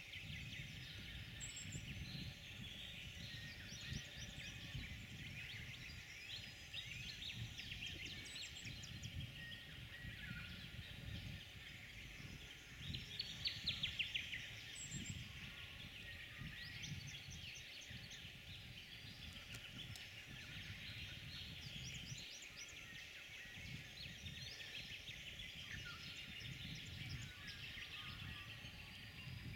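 Wild birds chirping and trilling, with a louder run of rapid repeated calls about halfway through, over a low background rumble.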